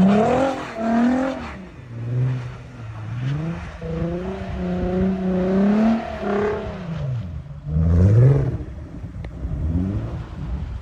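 Volkswagen Passat B6 engine and exhaust revving up and down several times, pitch climbing and dropping, as the car is driven sideways. There is a quick sharp rise in revs about eight seconds in.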